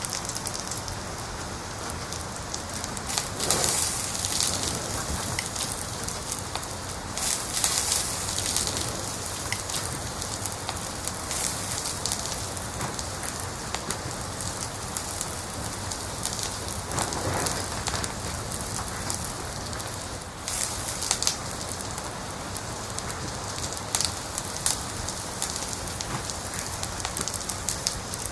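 Fire in a fireplace crackling: a steady hiss with frequent sharp crackles and pops, and a few louder flurries of crackling.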